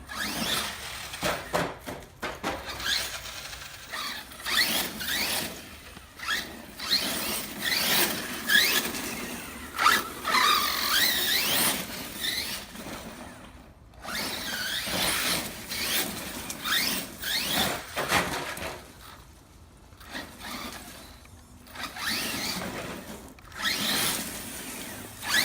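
Arrma Kraton 1/8 electric RC monster truck's brushless motor whining in repeated short rising bursts as it is driven hard and accelerates again and again, over the noise of its tyres on the ground, with a couple of brief lulls. The owner feels it is not running as smoothly as it used to and suspects worn bearings.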